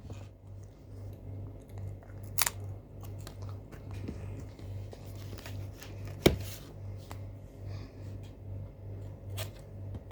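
Potato chips being eaten out of a large snack bag: crunching and crackling, with three sharp, louder crackles spaced a few seconds apart, over a low pulsing hum.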